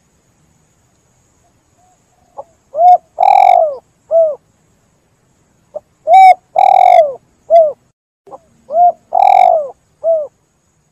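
Spotted dove (tekukur) cooing. After about two seconds of quiet come three phrases, each a short coo, a longer coo and a short falling coo, repeated at even intervals.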